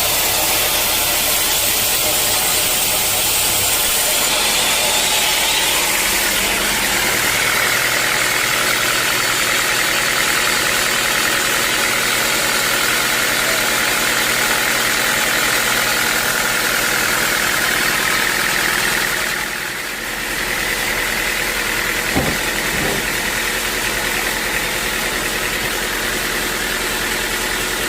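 Sawmill machinery running steadily with an engine hum. The sound drops briefly about twenty seconds in, then carries on, with a couple of knocks soon after.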